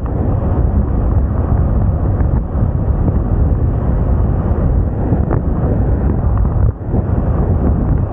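Wind buffeting the microphone on a moving Moda Moca 110 scooter, mixed with the scooter's running noise. The level dips briefly about seven seconds in.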